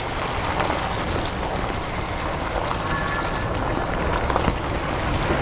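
Steady rain falling on a wet road, an even hiss with a low rumble underneath and a few faint clicks near the end.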